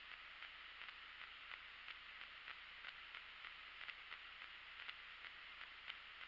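Faint rustling and soft irregular crackles of tall dry grass being walked through, over a steady faint hiss.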